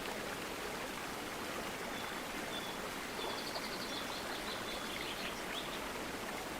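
River water rushing steadily, with a few faint high bird chirps about halfway through.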